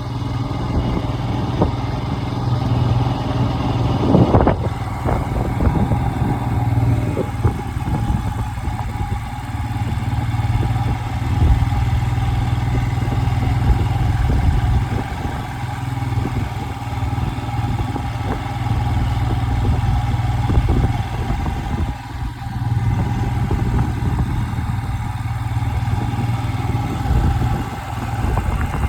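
A vehicle engine running steadily with a constant low hum, and a brief louder bump about four seconds in.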